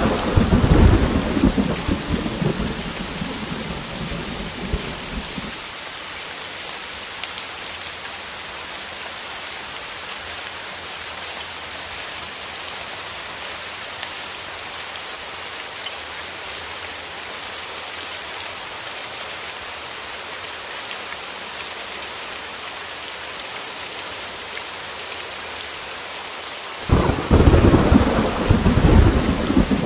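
Heavy rain falling steadily, with thunder. A rumble of thunder dies away over the first five seconds or so, and another loud roll of thunder comes in about three seconds before the end.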